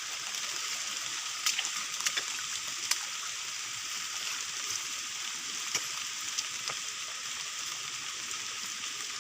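Steady rain falling, a constant hiss with scattered sharper ticks of individual drops hitting nearby.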